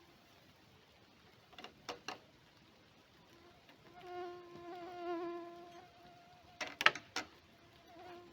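A flying insect buzzing, its hum swelling and fading, loudest from about four to six seconds in. A few short sharp knocks come about two seconds in, and a louder cluster of them shortly before the end.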